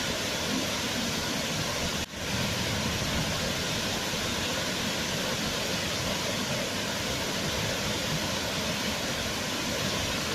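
Waterfall: a steady rush of falling water, with a brief drop in level about two seconds in.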